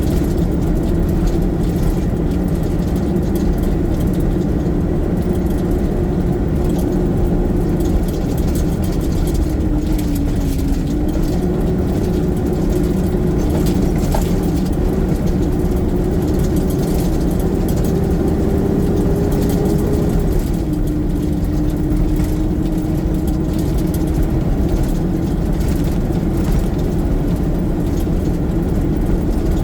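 Garbage truck engine running steadily, its pitch dipping briefly about ten seconds in, then rising, and stepping down again about twenty seconds in.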